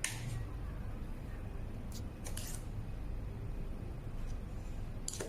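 A few short clicks and scrapes of hard objects being handled, at the start, about two seconds in, and near the end, over a steady low hum.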